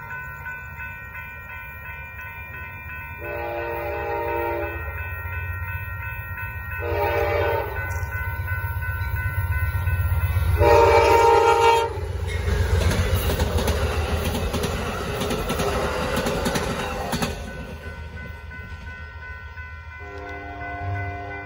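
Amtrak Texas Eagle passenger train blowing its multi-note horn for the grade crossing: a long blast, a short one, then a long one as the locomotive reaches the crossing. The train then rushes past for about five seconds with wheel clatter, and a further horn blast sounds near the end. A crossing bell rings steadily throughout.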